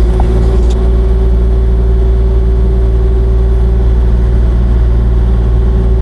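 Kubota KX040-4 mini excavator's diesel engine running loud and steady at high revs, heard close up, with a steady whine over the low rumble.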